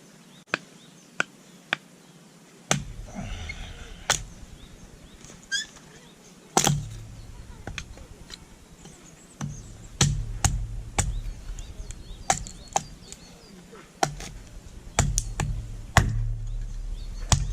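Firewood being split by hand: a run of sharp, irregular wooden knocks, some hard strikes and many lighter taps, with a low rumble between them.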